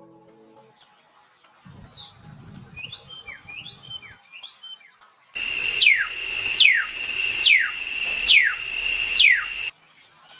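Bird calls cut together from separate recordings. First come a few soft chirps, each rising then falling. Then a louder series of five sharp, falling calls follows, about one a second, over a steady high-pitched tone, and it cuts off abruptly.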